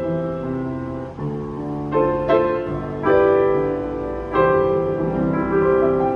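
August Förster upright piano, fitted with new Abel hammers, being played. Slow sustained chords and a melody ring and decay, with new notes struck about every one to one and a half seconds.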